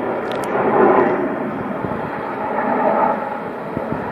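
Cockpit noise inside a Snowbirds CT-114 Tutor jet in formation flight: the engine and rushing air as a steady hiss that swells about a second in and again near the end.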